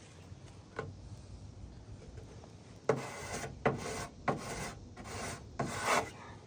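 Chalk rasping on the roofing in a series of short strokes, about five from about three seconds in, as hail hits are marked. One sharp click just under a second in.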